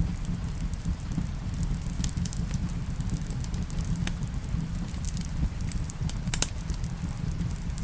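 Fireplace ambience: a wood fire crackling with scattered sharp pops over a steady low rumble, with one louder pop near the end. Rain on a cabin roof is mixed in.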